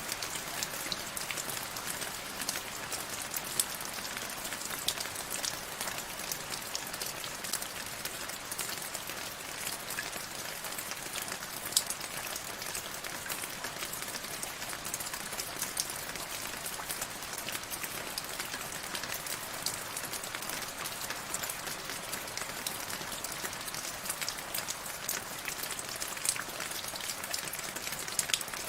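Steady rain with many separate drops ticking on a surface, and now and then a single louder drop, about twelve seconds in.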